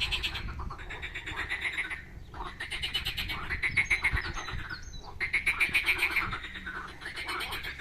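Frogs calling in chorus at a pond, several long, rapidly pulsed trills overlapping, with brief lulls about two and five seconds in.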